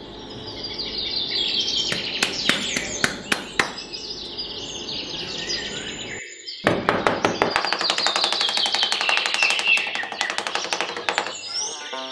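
Birds chirping in quick runs of falling notes over music, with sharp clicks among them. The sound drops out abruptly for a moment about six seconds in.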